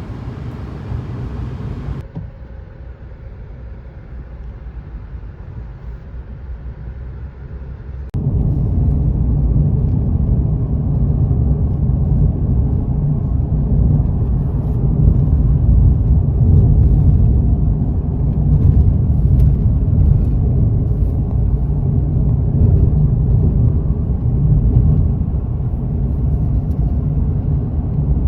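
Steady low road rumble of a car driving in traffic. It drops abruptly about two seconds in, then turns louder about eight seconds in and holds steady.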